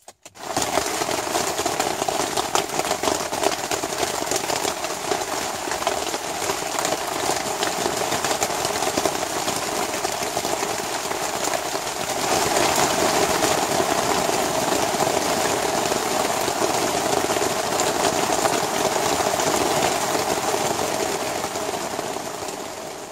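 Heavy rain falling on a tarp shelter and the wet ground around it, a dense steady patter of drops that gets heavier about halfway through and fades out near the end.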